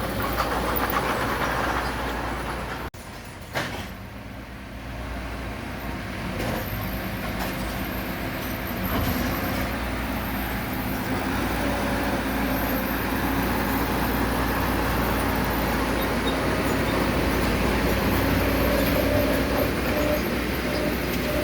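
Heavy diesel construction machinery running steadily, with a sudden brief drop-out about three seconds in, then running on, slightly louder toward the end.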